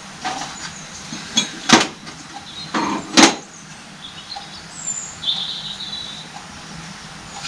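Knocks and clinks of metal hydraulic-pump parts being handled and set down on a workbench, with a short scrape. The loudest knocks come about two and three seconds in.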